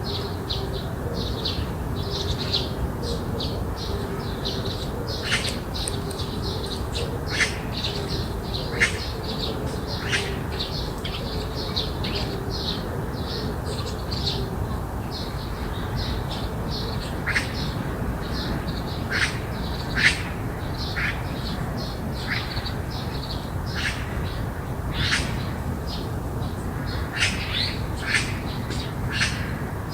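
Garden birds calling without pause: a dense stream of short, high chirps, broken now and then by sharper calls that drop quickly in pitch, over a steady low rumble.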